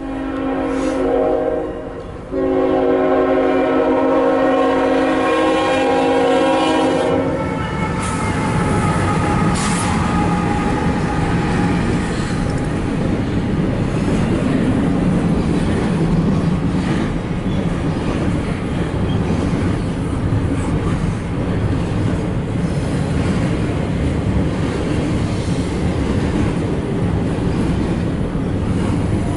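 CSX freight locomotive's air horn sounding a chord in two blasts, a short one and then a long one of about five seconds, as it nears the grade crossing. Then comes the steady loud noise of the intermodal train's container cars rolling past.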